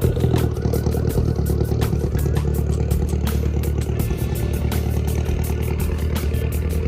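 A car engine idling steadily close by, with a fast regular ticking, about five ticks a second, over it.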